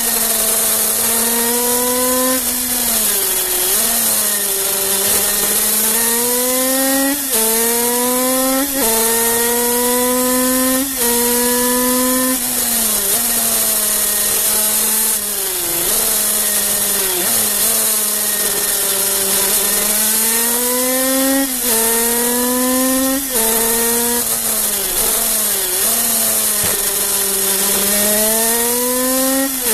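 Kreidler 50cc two-stroke single-cylinder racing engine at high revs under load. Its pitch climbs through each gear and drops sharply at every shift, and it falls away when the machine slows for corners. Wind rushes over the microphone throughout.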